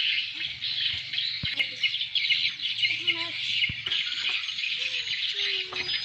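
Swiftlets twittering: a dense, continuous mass of high chirps, the swiftlet call sound used as a lure to draw swiftlets to a nest house, with a few lower sliding calls underneath.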